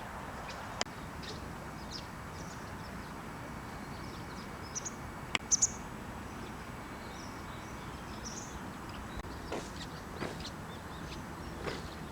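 Scattered short, high bird chirps over a steady low background noise, with a few sharp clicks.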